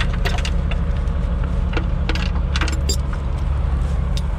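Steel recovery chain clinking and rattling in scattered metallic clicks as it is taken off a truck, over a steady low engine rumble.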